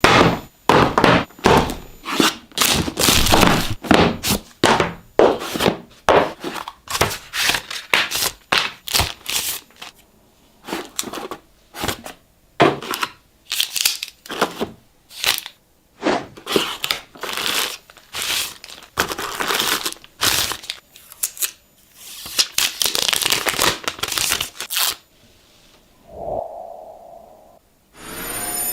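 Packaging being opened and handled: plastic and paper crinkling and tearing, with clicks and knocks of box parts, in quick irregular bursts. About 26 seconds in, a short steady tone sounds for about a second.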